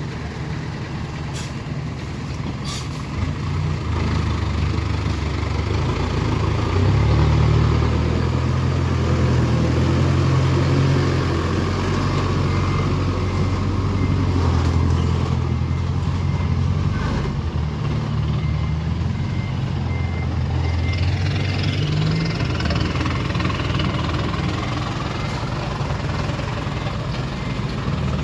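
Diesel engine of a six-wheel dump truck running under load, building up a few seconds in and easing off later, with a faint repeated beeping through the second half.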